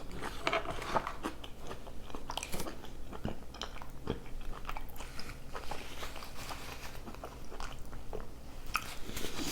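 A person chewing food up close to the microphone: irregular wet mouth clicks and small crunches.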